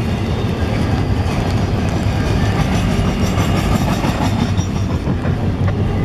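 Double-stack intermodal container cars of a CSX freight train rolling past at speed, with a steady, loud noise of steel wheels on the rails.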